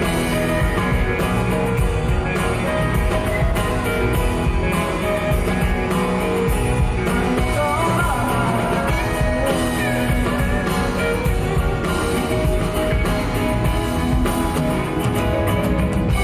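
Live band playing an instrumental passage after the last sung line, with electric guitar and a steady drum beat.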